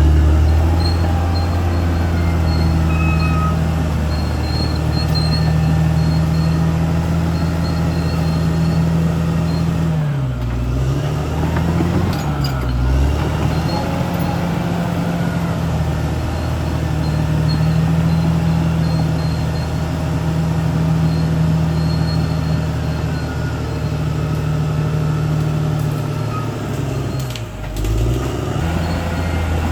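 Caterpillar D6R XL bulldozer's diesel engine running steadily at high revs. Its pitch dips briefly about ten seconds in, again around twelve seconds, and once more near the end.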